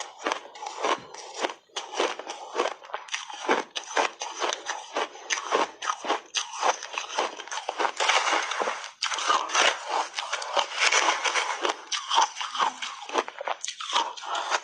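A person biting and chewing frozen shaved ice close to the microphone: rapid, dense crunching, thickest around the middle.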